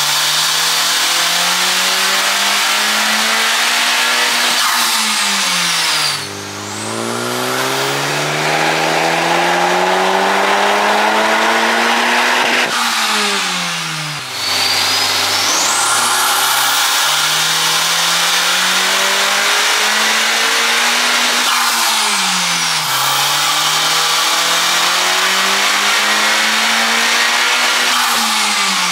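Turbocharged Honda Civic Type R (FK8) 2.0-litre four-cylinder under hard acceleration: the revs climb steadily for several seconds and then drop sharply, about three times, with a high whistle rising and falling above the engine.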